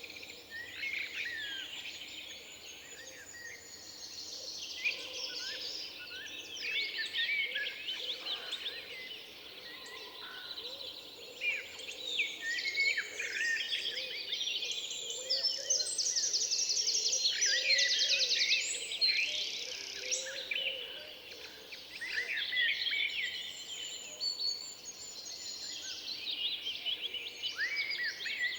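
Several songbirds singing at once in a forest, with overlapping chirps and warbled phrases throughout. A fast, evenly spaced trill stands out near the middle.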